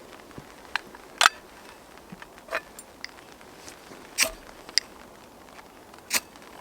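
Rain falling: a faint steady hiss with irregular sharp taps every second or two, four of them louder than the rest.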